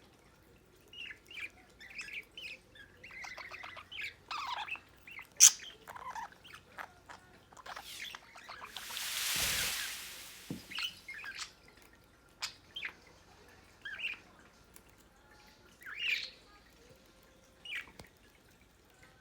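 Budgerigars chirping in short, scattered calls. A sharp click comes about five seconds in, and a brief rushing noise swells and fades a little past the middle.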